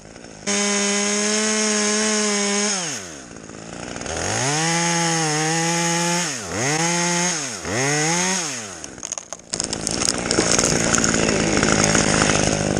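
Chainsaw running and revving: held at high speed for about two seconds, dropped to idle, then throttled up again with two short dips before it drops back at about nine seconds. For the last few seconds there is crackling and snapping wood, as a cut tree top breaks through another tree's branches, over the saw's faint idle.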